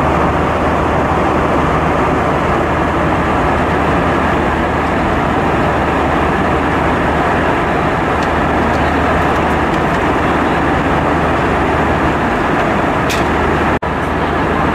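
Steady cabin noise of an Airbus A320-232 in flight: an even rush of engine and airflow noise over a low hum. The sound cuts out for an instant near the end.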